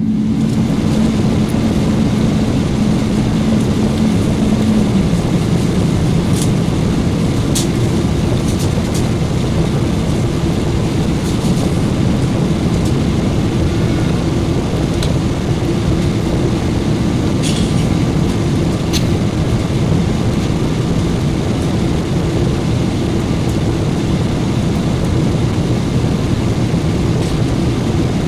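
Steady cabin noise inside a Boeing 777-300ER in flight: airflow and the hum of its GE90 engines. A hum drops in pitch about five seconds in, and a few faint clicks come from the cabin.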